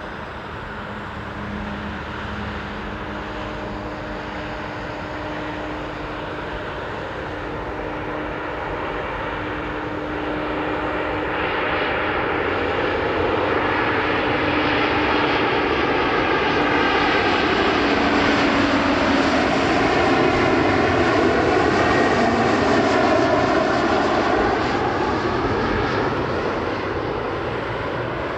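Passenger jet airliner flying low overhead on approach to land. The engine noise builds over about twenty seconds and is loudest a little past the middle. A steady engine tone drops in pitch as the plane passes, and the noise then eases slightly.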